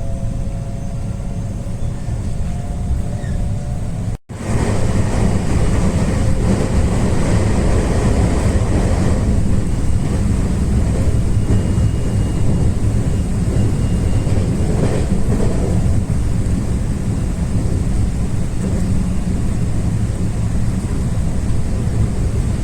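Passenger train running, a steady low rumble with track noise. The sound cuts out for an instant about four seconds in, then comes back a little louder.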